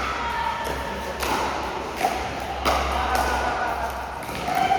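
Pickleball paddles hitting the plastic ball in a rally: several sharp pops, spaced about a second or two apart.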